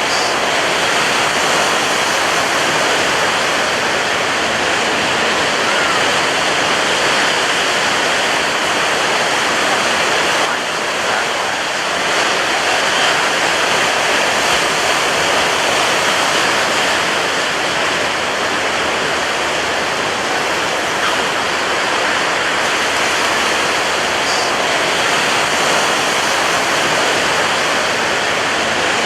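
Ocean waves breaking on a beach: a dense, steady wash of surf with a short dip in level about ten and a half seconds in.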